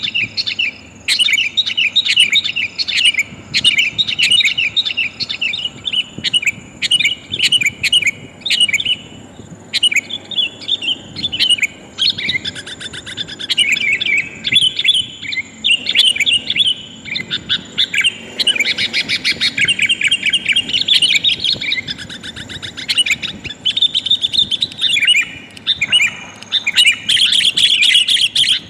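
Sooty-headed bulbul (kutilang) calling in rapid, chattering bursts of short notes, billed as a female calling to males.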